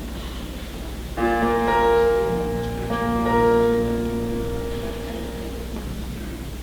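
Instrumental music from the show's pit orchestra: two held chords, one coming in about a second in and one near three seconds, each fading away, over a steady low hum.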